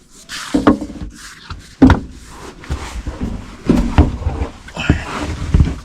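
Irregular knocks, bumps and scrapes, about one every half second to a second, from metal cabinet parts and tools being handled and a person shifting about.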